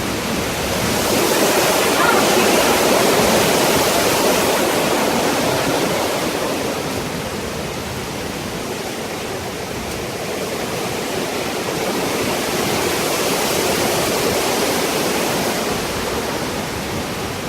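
Hurricane-force wind and rain in a steady rushing noise that swells and eases in gusts, strongest about two seconds in and again near the end.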